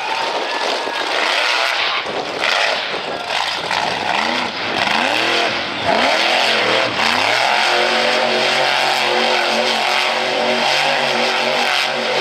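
Monster truck engine revved up and down repeatedly, then held at a steady pitch from about seven seconds in.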